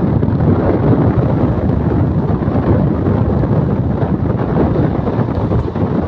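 Loud, steady rush of wind buffeting the microphone over the running noise of an express passenger train travelling at speed, heard from aboard the train.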